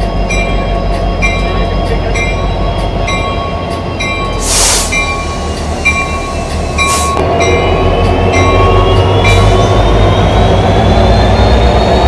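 A train running with a steady low rumble, while a short ringing tone repeats about twice a second. Two brief loud hisses come about four and a half and seven seconds in, and a slowly rising whine builds in the second half.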